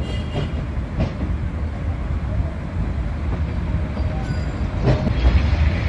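A train passing very close by, a steady low rumble of its engine and its wheels on the rails.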